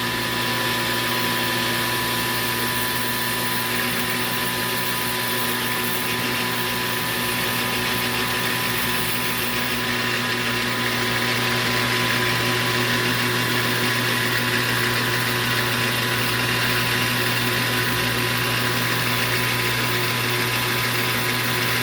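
Metal lathe running under power with a steady motor and gear hum while taking a cut on aluminium bar stock. It shuts down right at the end.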